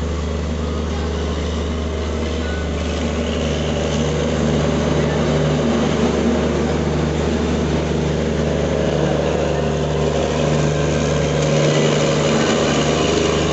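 Passenger train running: a steady low engine drone over continuous rolling noise, a little louder from about four seconds in.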